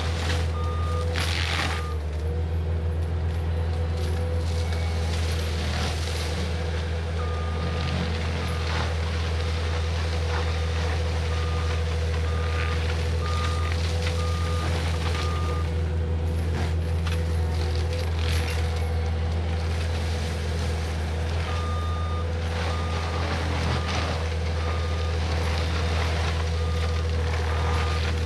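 Cat 259D compact track loader running steadily at work mulching, its backup alarm beeping in several runs as it reverses. A steady whine rides over the engine drone.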